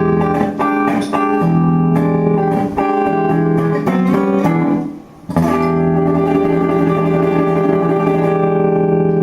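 Live guitar-led music: plucked notes over sustained chords, a brief break about five seconds in, then one long held chord.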